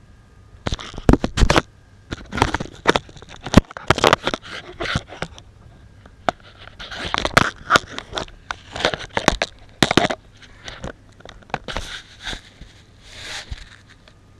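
Irregular scraping, rustling and crackling of objects being handled, broken by several sharp knocks, over a faint low steady hum.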